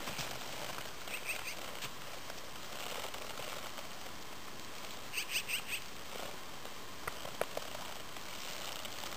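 A bird chirping in two short quick runs of notes, the second one louder, over a steady outdoor hiss, with a few soft clicks near the end.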